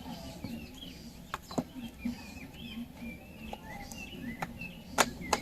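Birds chirping repeatedly in the background, with a few sharp clicks scattered through, the loudest near the end.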